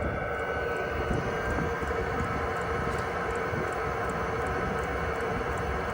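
Chinese diesel air heater running, heard from outside: a steady combustion and fan drone with a steady hum. Over it, the fuel dosing pump clicks faintly and regularly, about two to three times a second.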